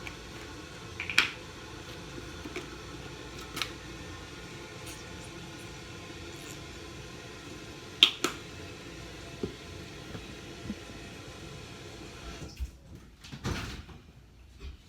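Plastic shampoo bottle and mixing cup being handled while shampoo is added to slime: a few scattered sharp clicks and taps over a steady hiss, the loudest about eight seconds in. The hiss drops away near the end.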